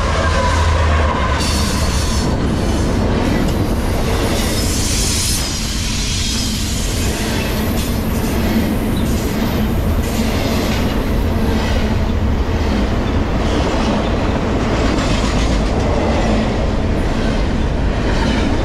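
CSX freight train passing close at track speed. The lead diesel locomotive's engine drone is strongest in the first second, then double-stack intermodal cars roll by with a steady rumble and repeated wheel clicks over rail joints.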